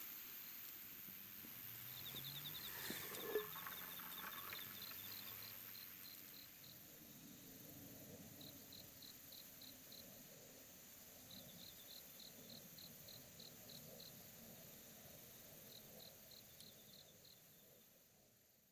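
Crickets chirping in short, evenly pulsed trains of about five to eight chirps a second, repeated every second or two, with a faint tap about three seconds in. The sound fades out at the end.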